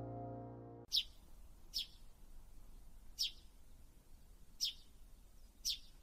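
Background music ends just under a second in. Then a bird chirps: five short, sharp, high single chirps, one every second or so.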